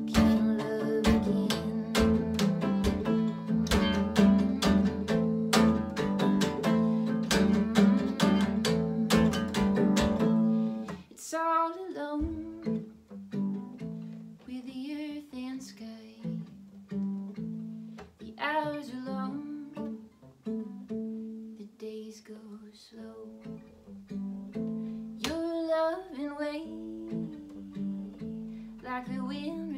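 Acoustic guitar music: busy strumming for about the first ten seconds, then a quieter, sparser picked passage with a wavering melody line that comes in a few times.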